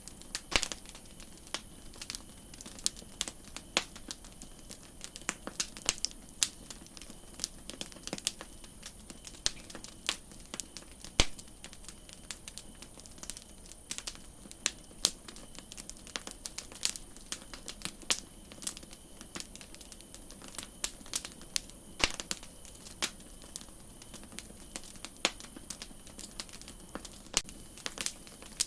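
Campfire crackling: irregular sharp pops and snaps, several a second, some louder than others, over a soft steady hiss.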